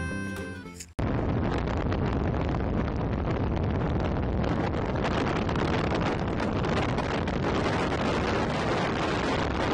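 Steady rush of wind and road noise in a moving car with its window open, the wind buffeting the microphone. It cuts in abruptly about a second in, after a short stretch of music fading out.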